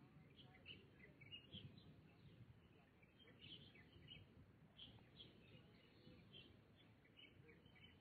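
Faint birds chirping: many short, high chirps from several birds, coming irregularly a few times a second over a steady low background rumble.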